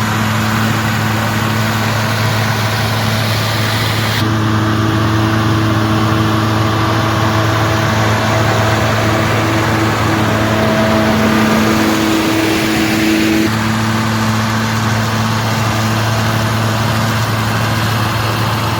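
A John Deere 4250 Power Shift tractor's diesel engine runs at a steady speed. The sound changes abruptly about four seconds in and again past the thirteen-second mark.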